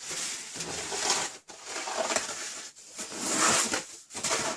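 Crunching and rustling of deep snow being trodden or pushed through, coming in about three swells.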